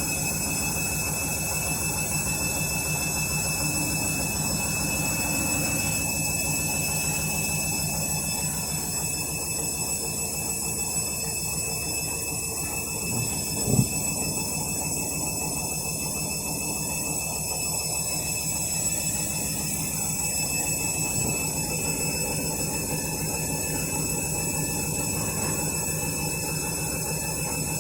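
Candy washing machine drum spinning steadily in its final spin at 400 rpm, a constant mechanical hum with a faint high whine. A single knock sounds about halfway through.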